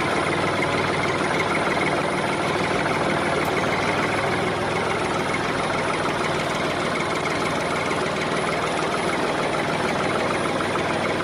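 A motor running steadily with a fast, even rattle and a faint whine, with no change in speed.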